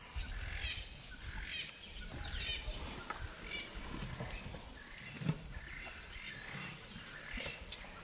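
Wild birds calling, short chirping calls repeated about once a second, with a low thud about five seconds in.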